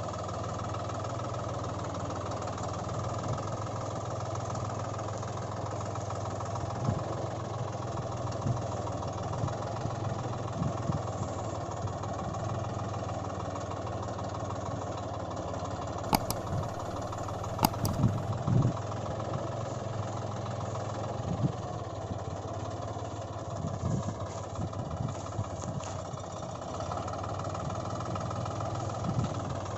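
Steady engine idling sound, an even drone that holds one pitch throughout, with a couple of sharp clicks about halfway through.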